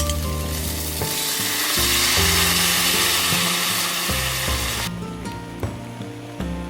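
Food sizzling in a hot pan over background music. The sizzle cuts off suddenly about five seconds in, leaving only the music.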